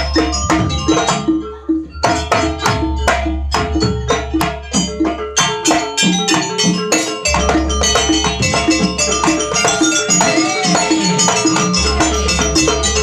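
Live Javanese jaranan gamelan music: a metallic gong-chime pulse repeating about four times a second, under quick, busy drum strokes.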